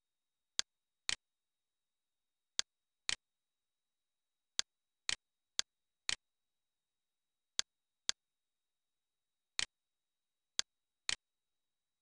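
Computer mouse clicks, thirteen sharp clicks over silence, mostly in pairs about half a second apart.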